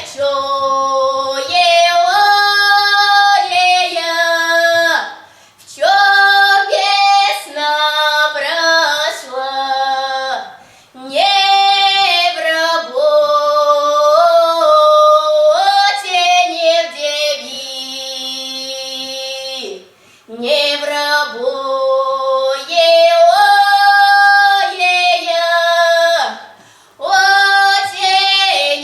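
Girls' voices singing a Russian folk spring song (a vesnyanka) in long held phrases, with short breaths between phrases.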